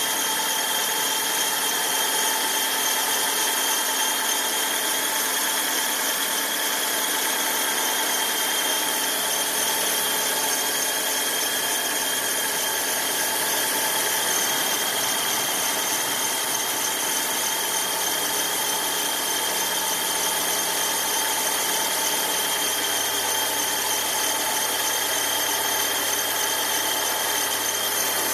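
Fiat Uno Vivace engine idling with a steady high-pitched squeal over it, a noise that comes only when the engine is fully cold and disappears once it warms up.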